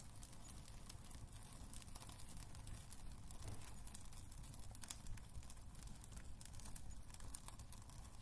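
Wood fire crackling in a fireplace: irregular sharp pops and snaps over a low steady rumble, a few louder snaps about five seconds in.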